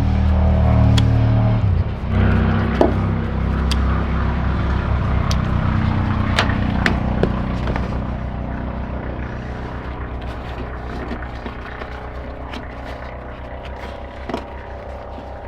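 1970 Chevrolet C10 truck engine running at idle: a steady low throb with scattered light clicks, gradually getting quieter over the seconds.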